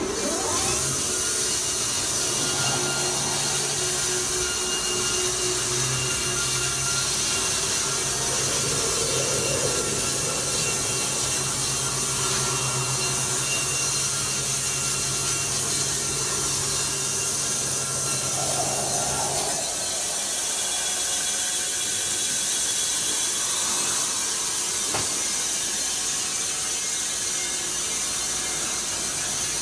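Sawmill machinery running steadily with a continuous sawing and grinding noise. A low hum underneath drops out about two-thirds of the way through while the noise carries on.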